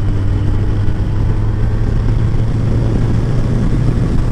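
Kawasaki ZZR 1400's inline-four engine running steadily at a constant cruising speed, mixed with wind and road noise.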